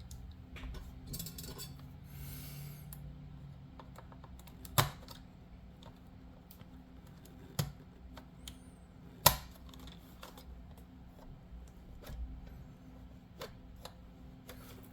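Small plastic clicks and taps as a tiny plastic step is handled and pressed into its tight-fitting slot on an H0 scale model railway car, with a brief rustle early on and two sharper clicks, about five and nine seconds in.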